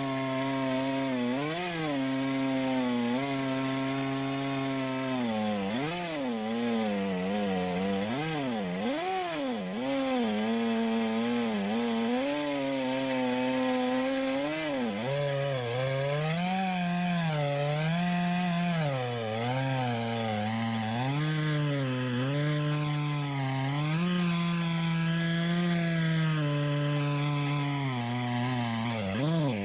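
McCulloch 610 two-stroke chainsaw mounted in a Granberg Alaskan chainsaw mill, running under load as it rips a log into boards. Its engine speed holds steady for about five seconds, then repeatedly dips and recovers as the chain works through the wood.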